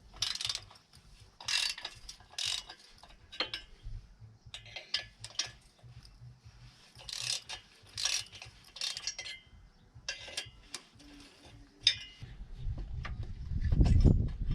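Ratchet wrench clicking in short strokes, a dozen or so in irregular spurts, while undoing the cylinder-head fasteners on a Jawa 634 motorcycle's two-stroke twin engine. A low rumble builds near the end.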